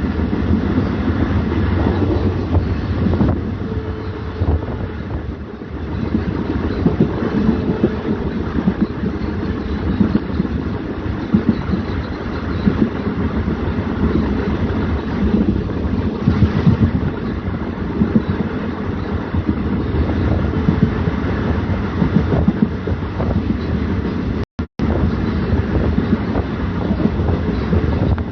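WDM3A diesel-electric locomotive hauling an express train, running with a steady heavy rumble and rattle. The sound cuts out twice, briefly, near the end.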